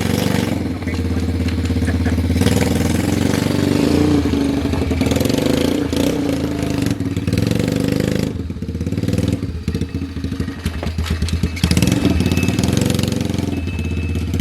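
The 125 cc motorcycle engine of a homemade mini 4x4 rock crawler running under way, its revs rising and falling; it eases off for a few seconds past the middle, then picks up again.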